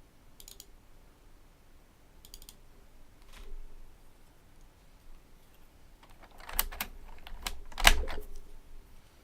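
Typing on a Fujitsu Component Libertouch membrane keyboard. A few light, scattered keystrokes come first, then a quick run of louder keystrokes about two-thirds of the way through, with one heavy stroke near the end of the run.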